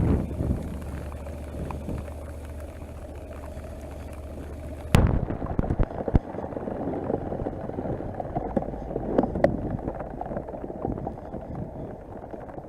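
Honda NC700X parallel-twin engine idling with a low steady hum. About five seconds in, a sharp click comes and the hum stops, followed by irregular rustling and knocks.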